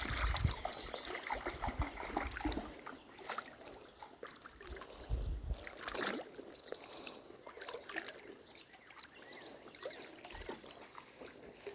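Shallow creek water trickling and splashing, with small birds chirping repeatedly in short high notes. Brief low rumbles come near the start and again about five seconds in.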